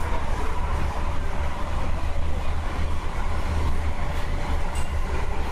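Interior running noise of an MTR Tung Chung Line K-stock train heard inside the carriage: a steady deep rumble with a faint steady whine above it.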